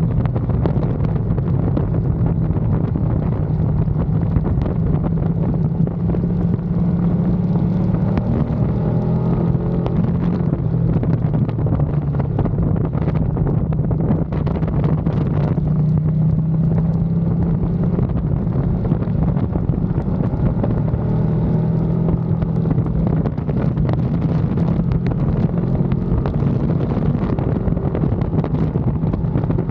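Onboard sound of a Ducati Panigale V2's twin-cylinder engine running under way, its note held fairly steady, with wind rushing over the microphone.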